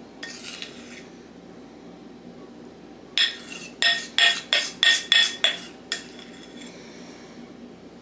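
A short soft scrape, then a metal utensil clinking against a dish about seven times in quick succession, each clink ringing briefly.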